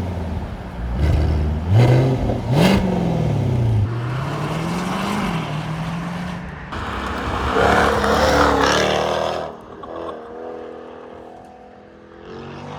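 Car engine revving and accelerating, its pitch climbing and dropping twice. A louder rush of noise follows about eight seconds in, then the engine fades.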